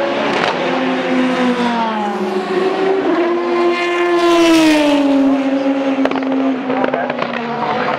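Race car engine passing: the engine note climbs as the car approaches, is loudest about four and a half seconds in, then drops in pitch as it goes by.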